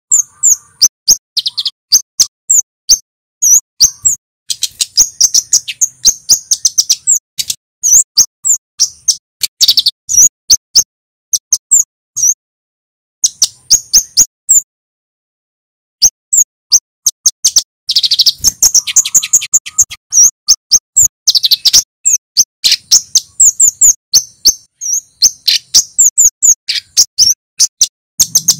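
Kemade (flowerpecker) calling a fast run of sharp, high 'cit' notes, several a second, with a short pause about halfway through.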